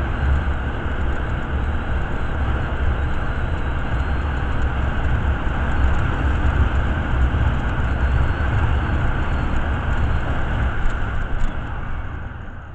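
Motorcycle running steadily at speed, with heavy low wind buffeting on the microphone; the noise fades away near the end.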